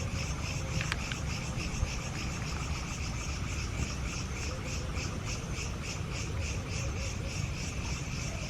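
Insects chirping in a steady, high-pitched pulsing rhythm of about four to five pulses a second, over a steady low rumble.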